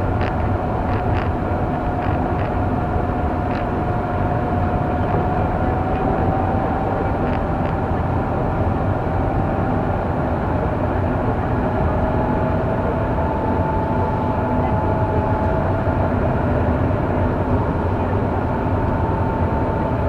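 Car driving, heard from inside the cabin: a steady rumble of engine and tyres with a faint whine that slowly shifts in pitch, and a few light clicks in the first few seconds.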